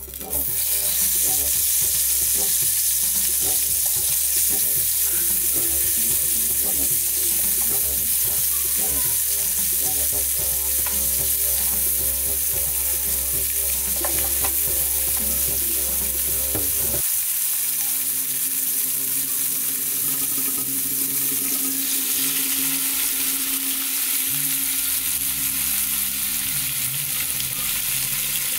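Chopped tomato, pepper and scallion frying in hot oil in a frying pan: a loud, steady sizzle that starts suddenly as the first pieces hit the oil.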